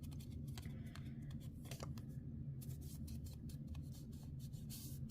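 Card stock and paper being handled on a craft table: a few light rustles and taps, a brighter rustle near the end, over a steady low hum.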